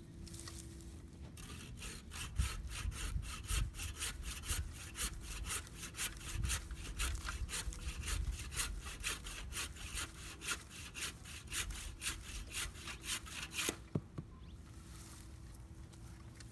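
Hand saw cutting through dead wood in quick, even back-and-forth strokes, about three a second, starting a second or so in and stopping near the end with a single knock.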